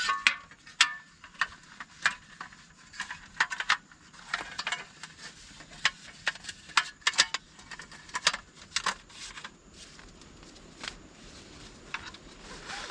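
Irregular clicks, taps and light rustling of objects being handled, busiest in the first nine seconds and quieter after that.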